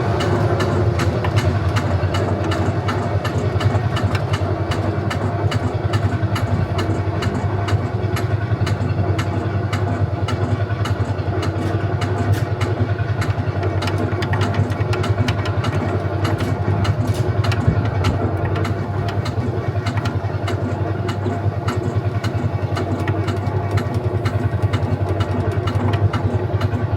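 A tractor-ride vehicle running steadily along its course: a constant low hum with frequent small clicks and clatter.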